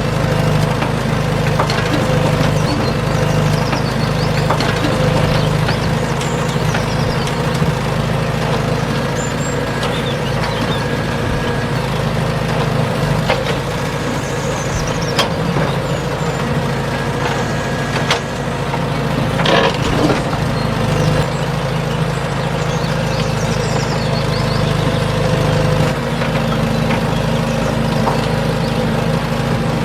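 Small DC gear motors of a homemade model tractor-excavator running steadily, with occasional clicks and knocks, loudest about 15 and 20 seconds in.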